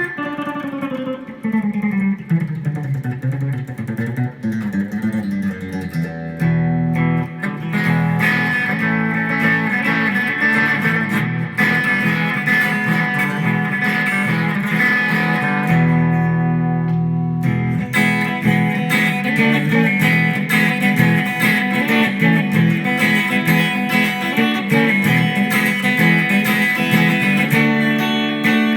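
Electric guitar being played: sustained notes and chords, sliding down in pitch over the first few seconds, then ringing on.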